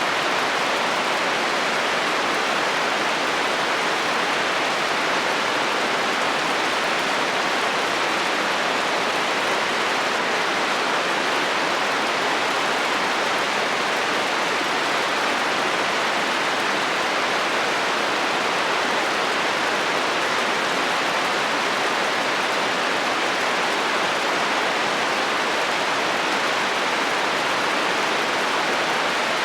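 Heavy rain falling on a metal roof, a steady dense hiss without thunder or other distinct strikes.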